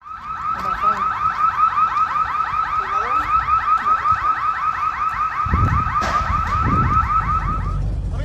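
Car alarm sounding a rapid repeating chirp, about five a second, which stops near the end; a low rumble joins about five and a half seconds in.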